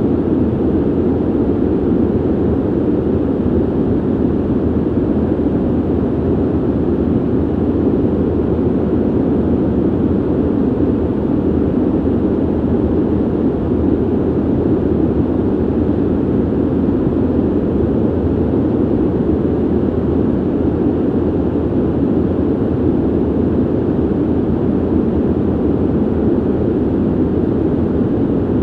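Steady ventilation noise: an even, low, rushing hum of air through a vent, unchanging throughout.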